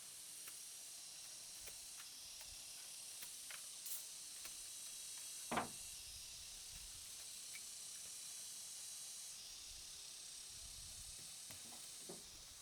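Steady high-pitched hiss of insects, with a few faint clicks and one louder knock about five and a half seconds in.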